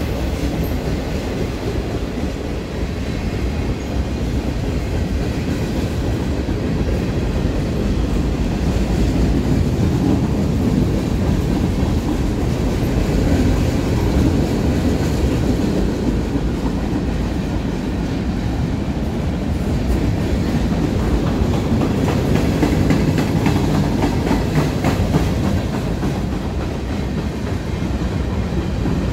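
Freight cars of a slow-moving CSX manifest train rolling past at close range: a steady low rumble with the wheels clicking continuously over the rails.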